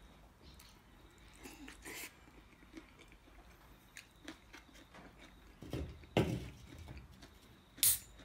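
A man chewing a mouthful of food, with faint small clicks of a metal fork against a foam takeaway container. There is a louder thump about six seconds in and a short hiss near the end.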